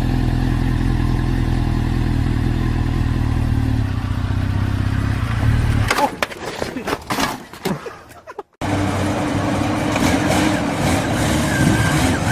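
Motorcycle engine running steadily at low revs; about six seconds in it drops away amid a few knocks, and after a brief gap an engine runs steadily again.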